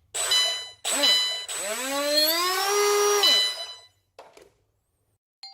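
Small electric motor of an RC racing boat revved in short bursts: a whine that dips and rises, then one longer rev whose pitch climbs over about two seconds and cuts off sharply, with a steady high-pitched whine underneath.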